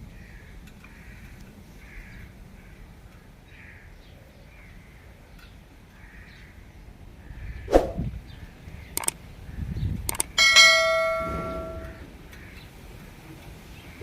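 Soft bird chirps repeating about twice a second, then a few sharp knocks and a struck metal object ringing out loudly for about a second and a half, like a small bell.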